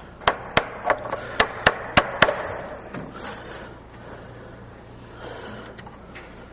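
A small hammer tapping a wooden chair joint together, about eight quick, sharp knocks in the first two and a half seconds, driving the part home to a tight fit.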